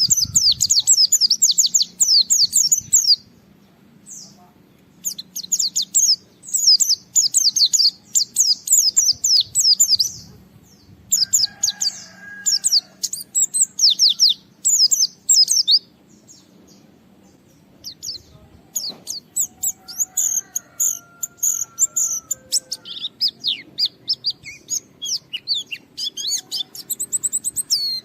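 A white-eye (pleci) singing in fast, high twittering phrases of a few seconds each, with short pauses between. This is the excited, full song of a white-eye challenging a rival, used as a lure to set other white-eyes singing.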